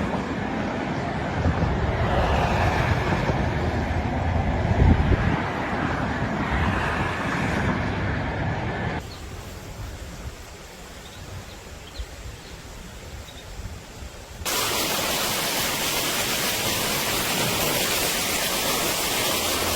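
Steady rushing noise of heavy rain and floodwater, with no tones, in three abrupt stretches: a lower, rumbling one, a quieter one from about nine seconds in, and a louder, hissier one from about fourteen seconds in.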